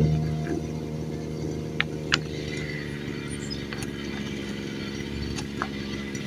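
A motor vehicle engine running at a steady idle, its pitch rising just before and then holding even, with a few light sharp clicks over it.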